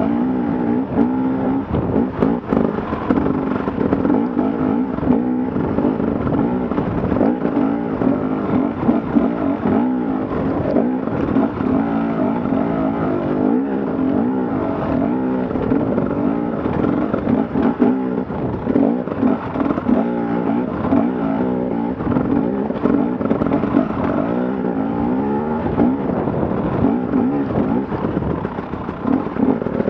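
Dirt bike engine running under way, its pitch rising and falling as the throttle is worked over rough ground.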